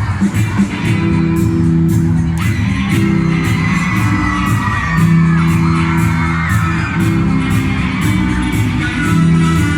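Live music: a strummed guitar playing steady chords in an even rhythm, with voices singing along.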